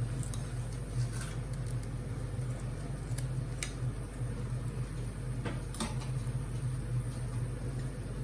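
A steady low mechanical hum, like a kitchen fan or appliance running, with a few light clicks and taps from kitchen work around the middle.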